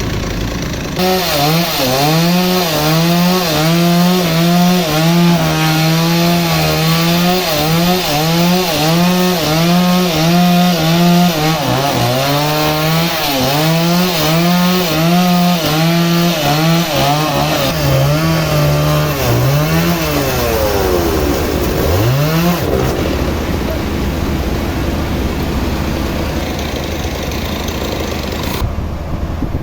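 A sawmill's motor-driven saw cutting a teak root. The machine's pitch keeps sagging and recovering as the blade takes the load, with one deep drop and climb back a little after two-thirds of the way through.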